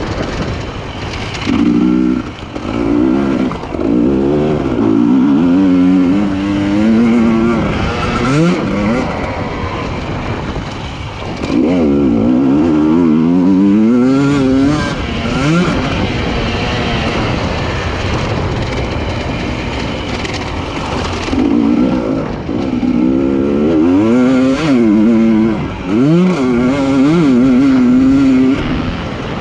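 Husqvarna TE300i fuel-injected two-stroke enduro motorcycle engine, ridden hard. It revs up in three surges, the pitch climbing and dropping again at each gear change, and falls back to a lower drone between surges.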